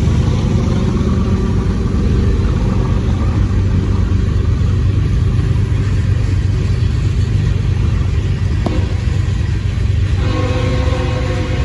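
Diesel freight locomotive running with a heavy, steady low rumble. There is a sharp clank about three-quarters of the way through. Near the end a steady pitched tone with overtones starts, typical of a locomotive horn.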